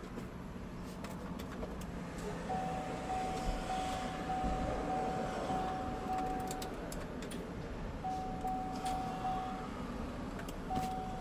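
Outdoor traffic ambience with a steady hiss and rumble of vehicles. Over it runs a rapid electronic beeping on one steady pitch, which comes in three stretches: from about two seconds in, briefly again around eight seconds, and near the end.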